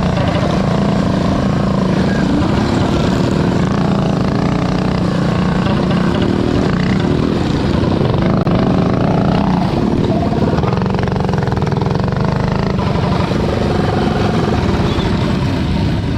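Predator 212cc single-cylinder four-stroke mini bike engines running hard on a dirt track, the engine pitch rising and falling in the middle.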